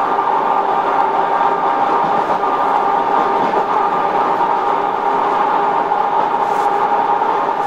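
Suburban electric train (elektrichka) running, heard inside the carriage: a steady running noise with a constant whine.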